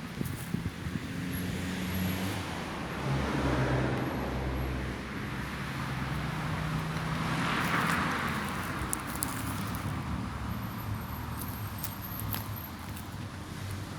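Road traffic: cars driving past one after another over a low engine drone. One swells past a few seconds in and a louder one goes by about halfway through.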